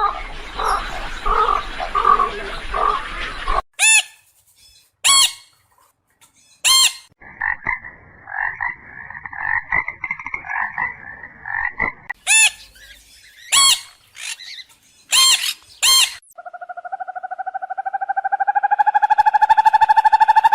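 A run of different animal calls one after another: short, sharp repeated calls, a rapid chattering trill, and near the end a rising, fast-pulsed buzzing call that grows louder.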